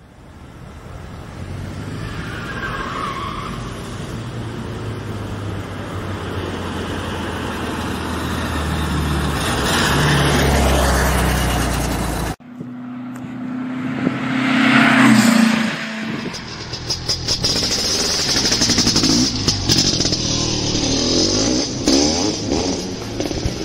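Classic air-cooled VW Beetle engine driving and accelerating, getting louder over the first half and then cutting off suddenly. A second pass follows that rises to a peak a few seconds later, and engine sound carries on after it.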